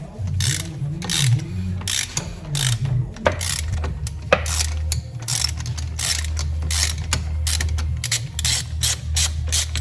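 Ratchet wrench clicking in repeated short strokes as the front driveshaft hub nut is undone.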